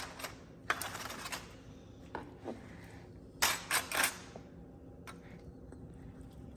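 Bursts of rustling and clicking from handling the smoked brisket: one cluster about a second in, and a sharper run of three around three and a half to four seconds, over a faint steady hum.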